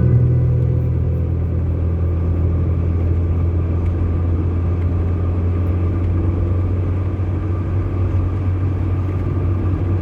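Car driving along a road: a steady, low rumble of engine and tyre noise.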